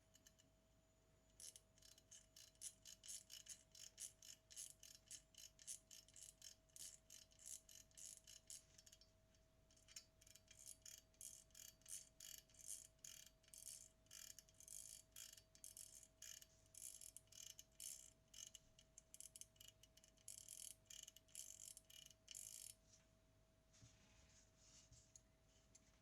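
Faint, quick mechanical ticking, about five ticks a second, with a short pause about nine seconds in; it stops a few seconds before the end. A faint steady hum runs underneath.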